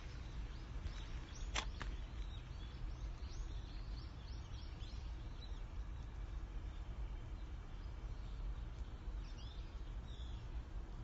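Small birds chirping: a quick run of short high calls over the first few seconds and a couple more near the end. Under them is a steady low rumble, and there is one sharp click about one and a half seconds in.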